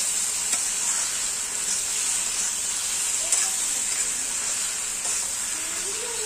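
Masala-coated chicken pieces frying in oil, with a steady sizzle, while a flat spatula stirs them round the pan, scraping and ticking against it now and then.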